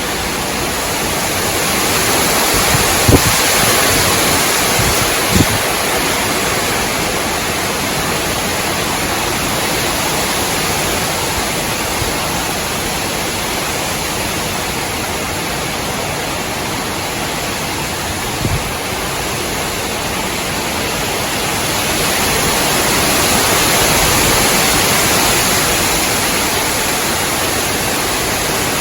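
Strong, gusty wind rushing through swaying trees, swelling a few seconds in and again near the end. A few brief low thumps break through, the loudest about three seconds in.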